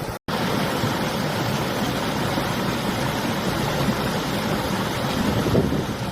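Steady rushing of a river, with winter wind buffeting the microphone as a low rumble. The sound cuts out completely for a moment just after the start.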